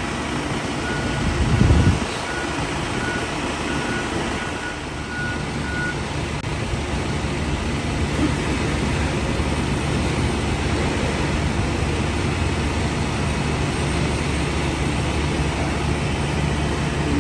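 Heavy vehicle engine running steadily at the farm dock. A reversing alarm beeps about twice a second for the first six seconds or so, and there is a low thump about two seconds in.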